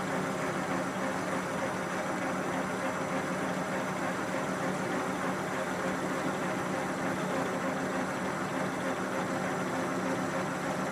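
A 12x36 Harbor Freight metal lathe running in reverse at fairly high speed while an upside-down parting tool cuts off a steel piece. The steady running and cutting sound carries no chatter.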